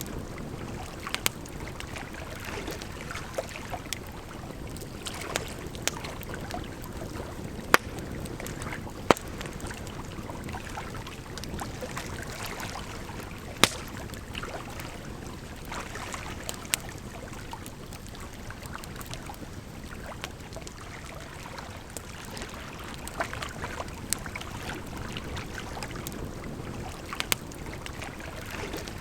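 Campfire crackling, with sharp pops at irregular intervals every few seconds, over the steady rush of running water.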